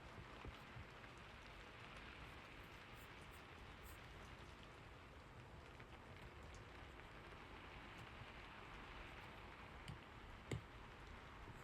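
Faint, steady rain falling, with a few small clicks: two soon after the start and two about ten seconds in, the second of these the loudest.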